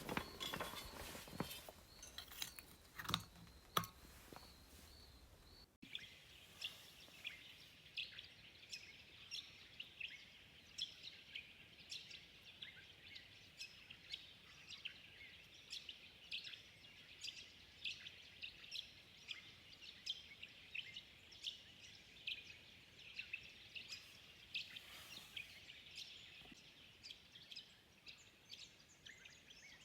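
A few knocks and clicks, then, after about six seconds, birds chirping with many short, high calls, two or three a second, over a faint steady background.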